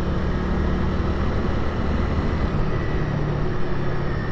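Honda Rebel 300's single-cylinder engine running steadily while the motorcycle is ridden, under a steady rush of wind and road noise.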